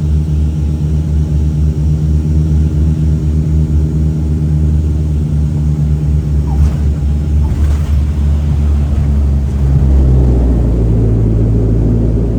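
Dash 8 turboprop's engines and propellers running, a loud steady drone of low even tones. About ten seconds in the tones shift and a rougher noise rises.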